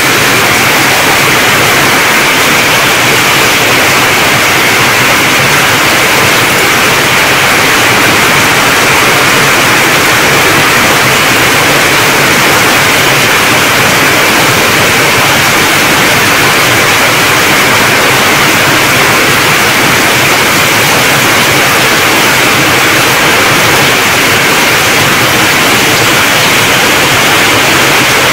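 Torrential rain falling on corrugated metal roofs, a loud, steady, unbroken hiss of heavy downpour.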